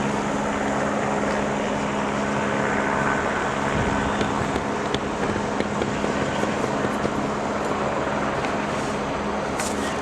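A steady engine drone with an unchanging low hum, under a wash of outdoor noise and a few faint ticks.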